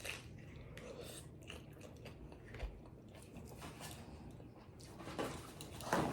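A person chewing pizza tacos close to the microphone: faint, scattered wet mouth clicks and small crunches, a little louder about five and six seconds in.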